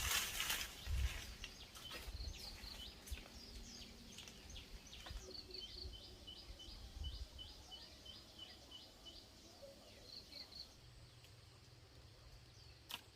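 A bird calling in a long series of short, high chirps, two or three a second. Rustling and a few light knocks come in the first seconds.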